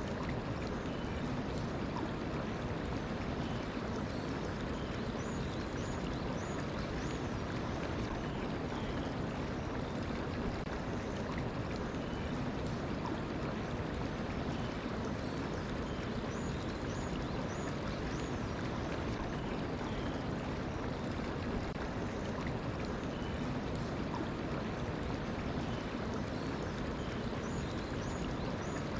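Mountain stream flowing steadily, a continuous rushing of water. A small bird chirps a short run of three or four high notes three times, about every eleven seconds.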